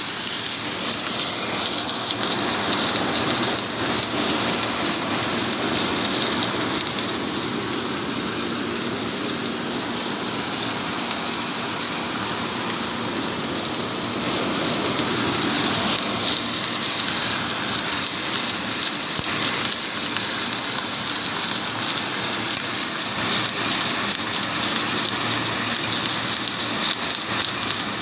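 Submerged arc welding (SAW) running: a steady hissing noise that holds level throughout.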